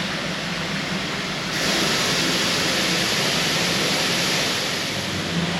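Steam locomotive releasing steam: a loud hiss starts suddenly about a second and a half in and eases off about three seconds later, over a low steady rumble.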